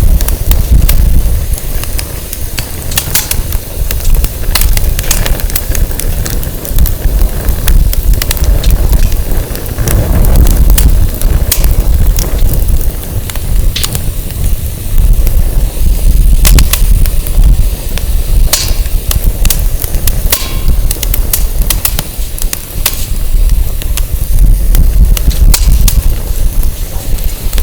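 Firewood burning in a campfire, crackling with scattered sharp pops, while wind buffets the microphone with a loud, uneven low rumble.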